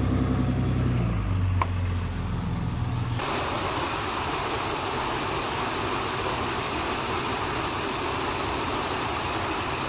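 A vehicle engine idling with a steady low hum, cut off abruptly about three seconds in by an even, steady rushing noise.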